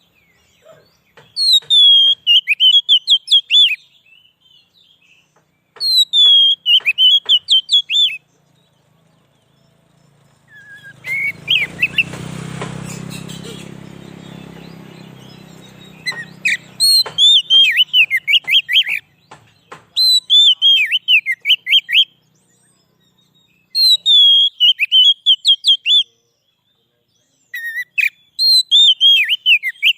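Oriental magpie-robin (kacer) singing loud, repeated phrases of quick whistled notes that fall in pitch, in bouts of two to three seconds with short pauses. Midway a low rumbling noise swells and fades over several seconds.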